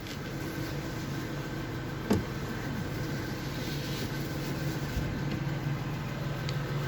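Pickup truck engine idling steadily, with a brief short sound about two seconds in.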